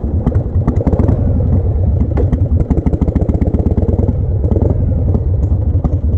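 1988 Harley-Davidson Heritage Softail's Evolution V-twin engine running under way, a fast, steady train of low firing pulses, with clatter and knocks from a rough road surface.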